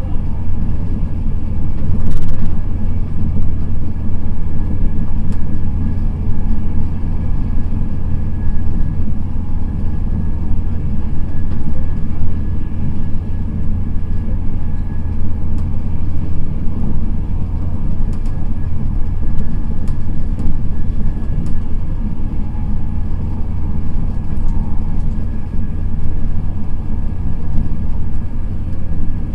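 Steady rumble of an express passenger train running at speed, heard from inside the coach: wheels on the rails and air rushing past, with a faint steady whine above it. A single sharp click about two seconds in.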